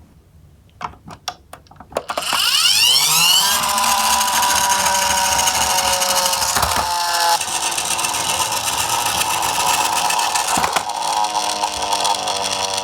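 Die-cast miniature garbage truck set off with a few light clicks, then rolling down a slope track, its small wheels making a loud, steady, rattling rumble from about two seconds in.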